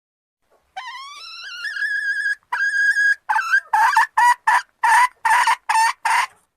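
Junglefowl hen calling. A long note rises in pitch and levels off, a second note is held briefly, then comes a quick run of about nine short notes, roughly three a second. This is the call a hen uses to draw a male.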